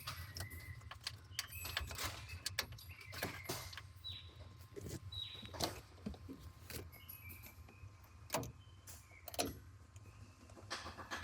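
Workshop handling noises on a car: scattered clicks and knocks, with two short falling squeaks about four and five seconds in, over a low steady hum.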